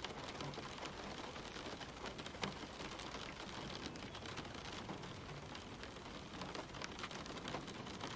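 Steady light rain falling on leaves, a constant soft hiss dotted with many separate drop ticks, one louder drop about two and a half seconds in.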